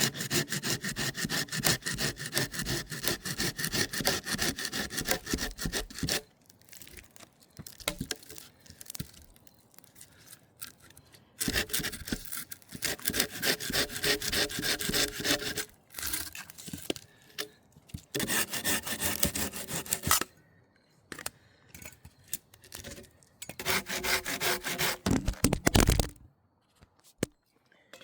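Hand saw cutting through wood with quick back-and-forth strokes, in four bouts separated by short pauses.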